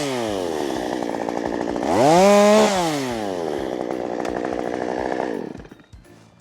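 Chainsaw engine falling from full throttle to idle, revved up briefly once about two seconds in, then running lower before going quiet about five and a half seconds in.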